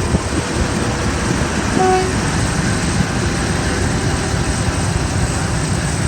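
Class 50 diesel locomotives with English Electric V16 engines running, a steady loud rumble with a rushing noise over it.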